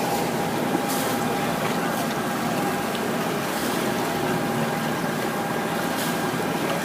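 Small harbor shuttle boat's engine running steadily under way, a constant hum with water noise around the hull.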